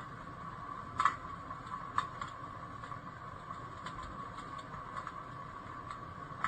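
Electric fireplace heater's fan running on its high setting, a steady whine over a low hiss, with a few sharp clicks scattered through it.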